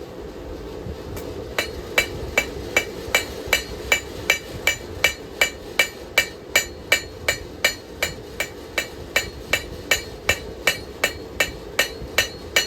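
Forging hammer striking a hot steel knife blade on an anvil: a steady rhythm of ringing blows, about two and a half a second, starting after a short pause, as the blade is drawn out.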